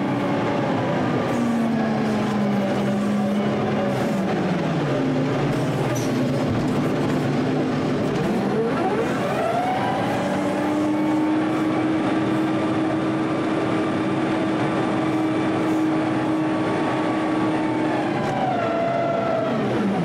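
The diesel engine of a snow-clearing loader, running continuously and changing speed as it works. Its pitch sinks over the first few seconds, climbs sharply around nine seconds, holds steady for several seconds, then dips and picks up again near the end.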